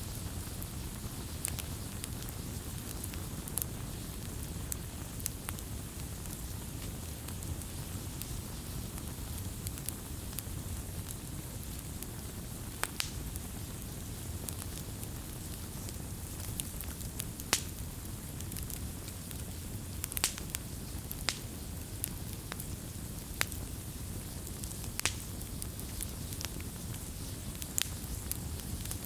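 Wood fire crackling: sharp, irregular pops and snaps over a steady low rumble, with a few louder cracks around the middle.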